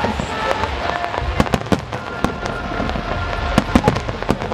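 Aerial fireworks bursting overhead in a rapid, irregular run of bangs and crackling reports, with a cluster of louder bangs a little before the end.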